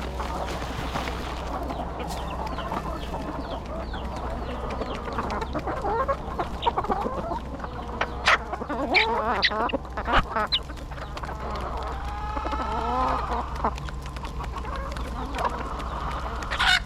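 A flock of free-roaming chickens clucking and squawking, with many short calls overlapping and one longer call about twelve seconds in, over a steady low hum.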